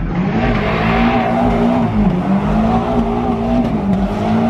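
Honda Civic's engine held high in the revs during a burnout, wavering slightly, with a hiss of tire noise over it in the first second or so.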